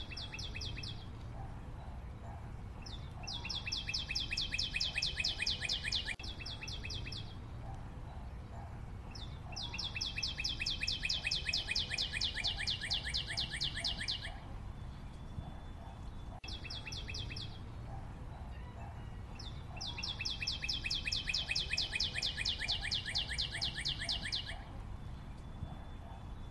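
A bird trilling in bouts of fast, evenly spaced high notes: three long trills of about four seconds and one short one, with pauses between them, over a steady low background noise.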